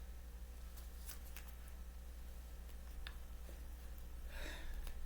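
Faint handling of tarot cards: a few light clicks and rustles about one and three seconds in, over a steady low electrical hum, with a breath near the end.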